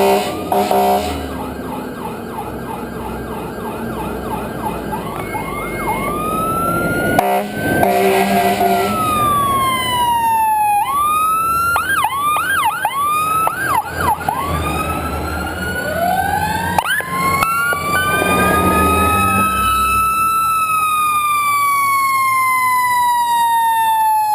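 Several fire apparatus sirens sounding at once: quick repeated yelping sweeps at first, then overlapping slow wails that rise and fall. An air horn blasts near the start and again about seven seconds in.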